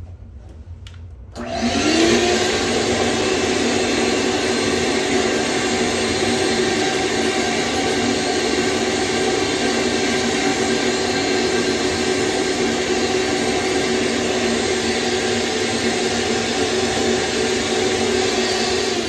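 An electric motor switches on about a second and a half in, winds up to a steady whine and runs evenly with no change in load, over a constant rush of air.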